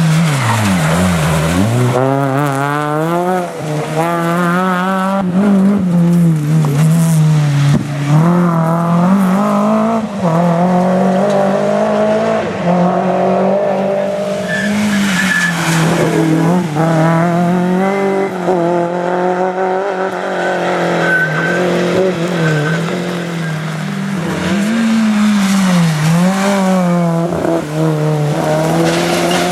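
Rally car engines revving hard and dropping back over and over as they change gear and take corners, with tyres squealing.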